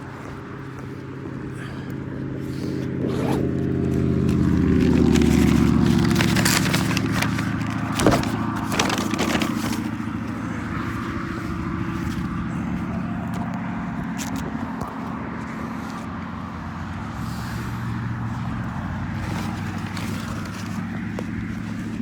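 Roadside highway traffic: a vehicle's engine hum builds to its loudest about five seconds in and falls in pitch as it passes, then steady traffic noise carries on. Through the middle there is scraping and rustling close to the microphone, with a sharp knock about eight seconds in.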